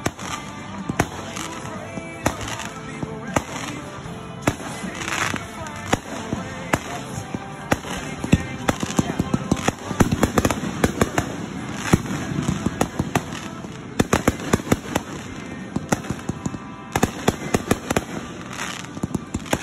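Fireworks display: aerial shells bursting with many sharp bangs and crackles, coming fastest in a dense run in the middle.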